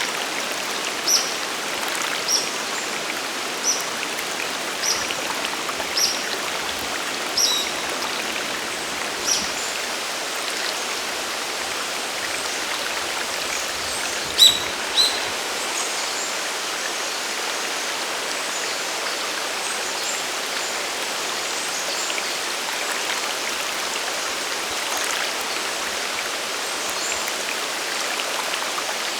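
Steady rush of a waterfall and mountain stream. A bird gives short high chirps about once a second for the first ten seconds, then two louder high notes about halfway through.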